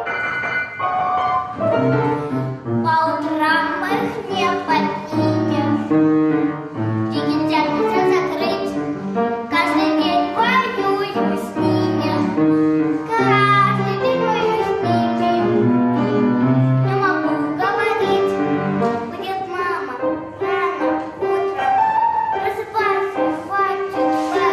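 A song playing: children singing along with a musical backing track.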